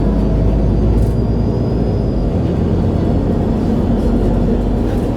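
MAN A23 Lion's City G articulated city bus under way, its engine and drivetrain running steadily with a low drone, heard from inside the passenger cabin.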